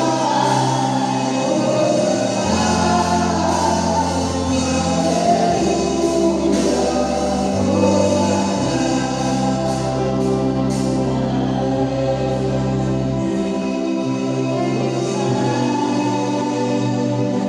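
Choir singing gospel music over held low accompaniment notes that shift pitch every few seconds.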